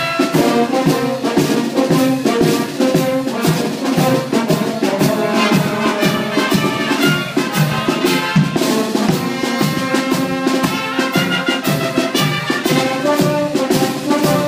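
Brass band music with trumpets and trombones, playing to a steady beat.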